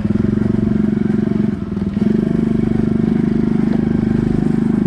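Pit bike engine running steadily while being ridden, easing off briefly about a second and a half in, then picking back up and holding steady.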